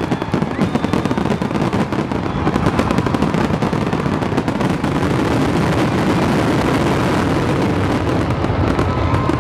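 Aerial fireworks barrage: many shells bursting in rapid, overlapping succession, their booms and crackle running together into a continuous rumble.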